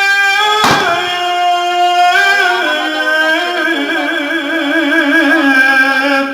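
Turkish folk song: a slow melody of long held notes, sung without words and ornamented with wavering turns, the pitch stepping down toward the end.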